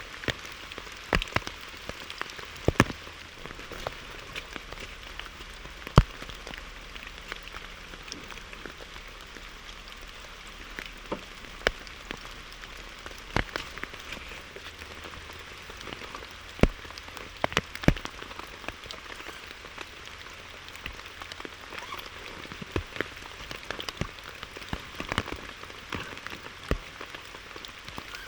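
Rain falling steadily on a surface, with a hiss and irregular louder single drops striking every second or two.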